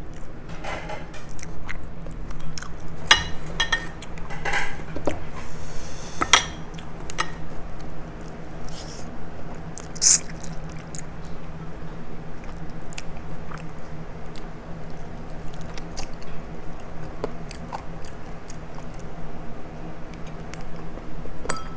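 A person chewing and gnawing on chicken feet, with many small sharp clicks, over a steady low hum.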